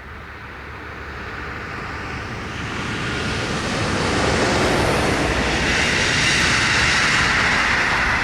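A train approaching and passing by: a noisy rush that builds over the first few seconds and is loudest through the second half.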